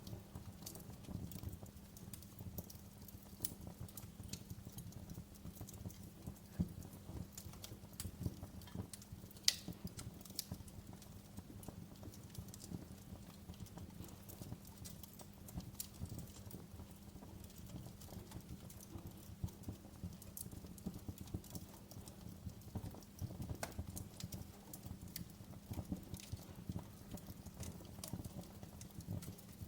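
Wood fire crackling in a fireplace: irregular pops and snaps over a low, steady rumble of burning, with one sharper pop about nine and a half seconds in.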